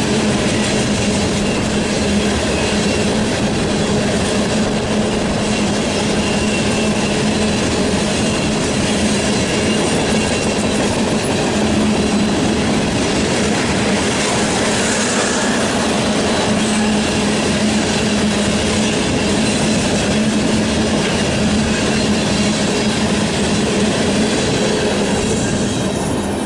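Freight train rolling past at a steady speed, its wheels clattering continuously over the rails.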